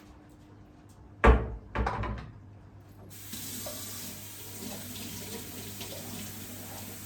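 Two loud knocks just over a second in, then a kitchen tap turned on, water running steadily into a sink.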